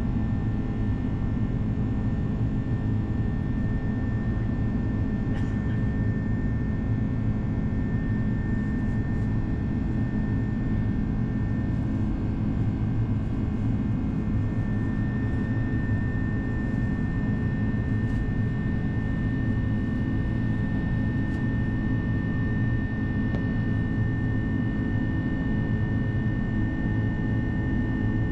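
Steady in-flight cabin noise of an Airbus A330-200: an even low drone of engines and airflow, with a thin steady high tone running through it.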